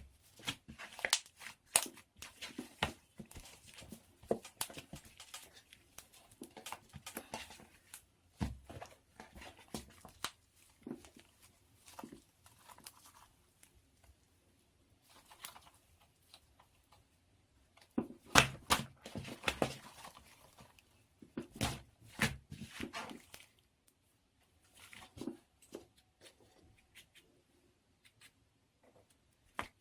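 Hands kneading and stretching pink slime with cloud slime mixed in: irregular sticky crackles, pops and tearing sounds in clusters, with short pauses between handfuls.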